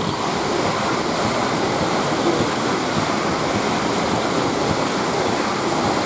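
Twelve-car Class 450 Desiro electric multiple unit passing close by at speed: a steady, loud rush of wheels on rails and air.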